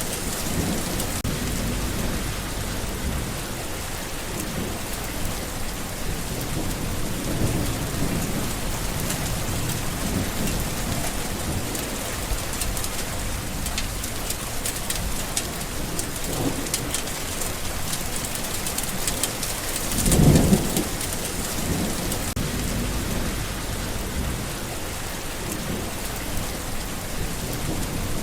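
Steady rain falling, with a loud low roll of thunder about twenty seconds in and fainter rumbles earlier.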